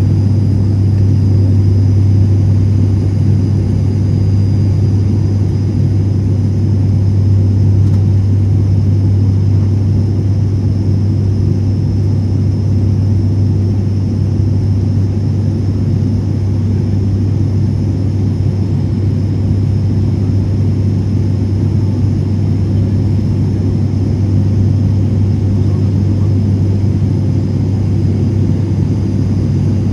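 Cabin noise of an ATR 72 turboprop: a loud, steady propeller and engine drone with a strong low hum that holds constant.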